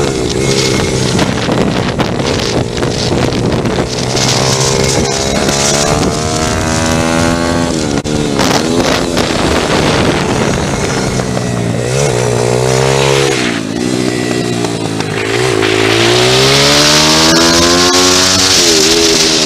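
Pit bike engine revving up and falling back again and again as it is ridden round a track. A strong hiss rises over it near the end.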